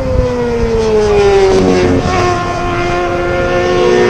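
Race motorcycles of the 600cc class running at high revs on track, the engine note of a passing bike falling steadily over a few seconds and then holding, with wind rumble on the microphone.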